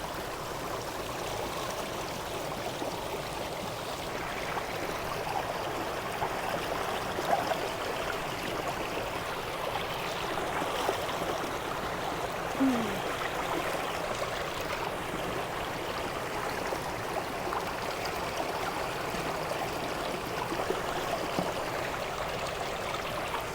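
Steady rush of a river flowing fast, running high after a hurricane, with a few faint brief sounds over it.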